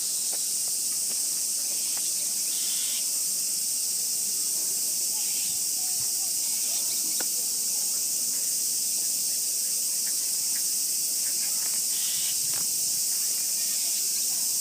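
Cicadas in chorus: a steady, high-pitched drone that holds without a break.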